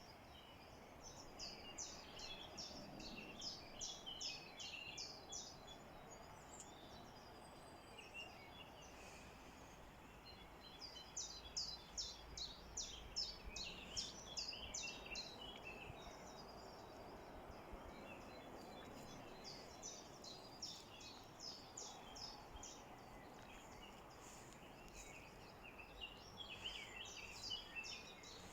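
Songbirds singing in the open: several runs of rapid high chirping notes, each a few seconds long, over a faint steady background hiss.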